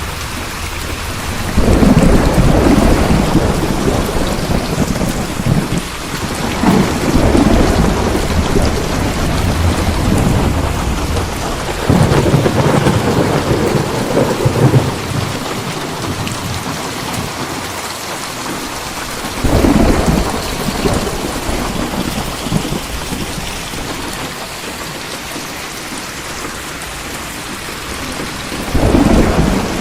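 Steady heavy rain with thunder rolling in repeatedly: four or five low rumbles, each swelling suddenly and dying away over a few seconds, the loudest about two seconds in and again around twelve seconds.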